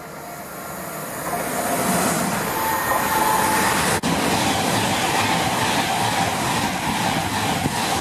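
Electric express train passing close at speed: a rush of wheels on rail and air that builds from about a second in and stays loud, with a steady high whine over it.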